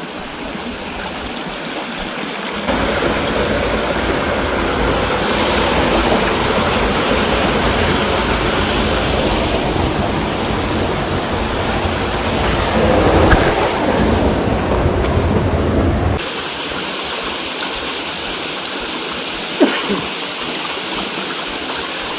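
Steady rush of running water, such as a canyon stream or small cascade. The sound steps up abruptly about three seconds in, with a deep rumble added, and drops back abruptly after about sixteen seconds.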